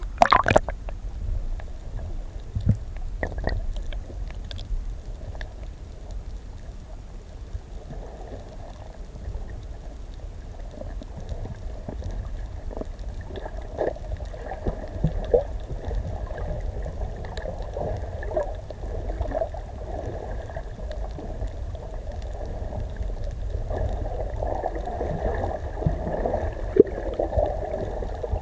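Muffled water gurgling and bubbling over a steady low rumble, with scattered small clicks; the gurgling swells in several stretches.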